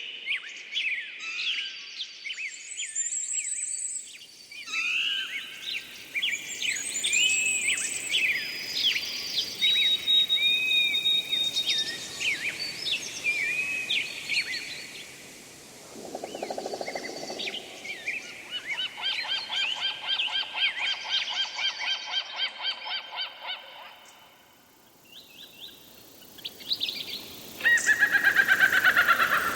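Several birds singing and calling: quick chirps, whistles and trills. A short, harsher, lower honking call comes about halfway through, followed by a long, fast, repeated trill, and a loud, fast trill near the end.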